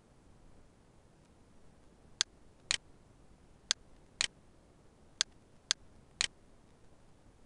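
Computer mouse clicking: seven sharp, short clicks starting about two seconds in, several coming in pairs about half a second apart.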